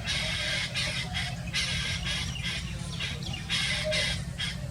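A bird calling over and over in harsh, squawking calls, each under a second long, with a steady low rumble underneath.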